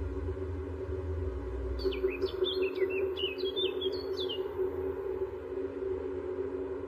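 A bird chirping: a short run of quick, falling chirps lasting about two and a half seconds, over a steady low drone and rumble.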